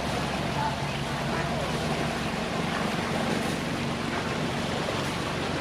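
A motor cruiser's engine running steadily as a low hum, over a constant wash of water.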